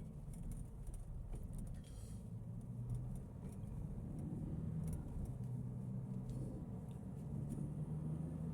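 Mahindra Thar ROXX engine running with a low, steady drone that swells slightly a couple of times. The vibrating 'bharr' rattle from the engine bay is absent now that a loose pipe has been removed.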